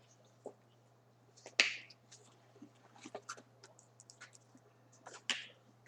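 Quiet, scattered small clicks and taps from handling food and packaging at the table. Two short, sharper hissy sounds stand out, about one and a half seconds in and near the end, over a faint steady hum.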